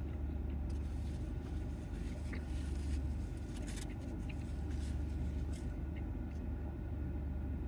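Steady low hum of a car cabin, with a few faint short clicks and rustles.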